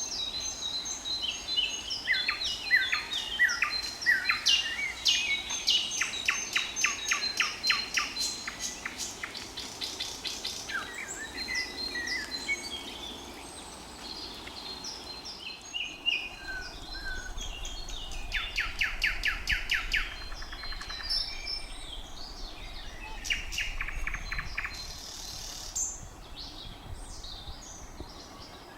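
Thrush nightingale singing: varied whistled phrases alternating with several fast runs of rapidly repeated clicking notes.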